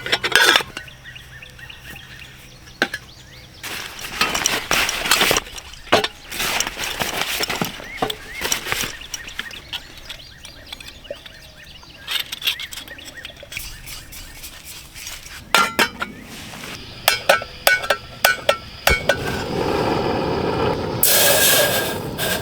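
Metal camp cookware and gear clinking and clattering as they are handled and set out, in a string of separate knocks and chinks. Near the end a steady rushing noise sets in.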